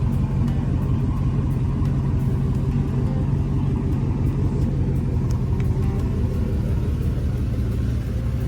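Chevrolet 350 cubic-inch small-block V8 with Cherry Bomb resonators idling steadily with a low exhaust rumble.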